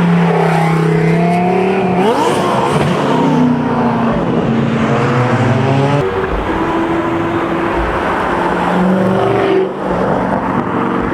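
Engine of a 2000 hp Underground Racing twin-turbo Lamborghini Huracán STO revving as the car pulls away, with a sharp rise in pitch about two seconds in and then several falls and climbs.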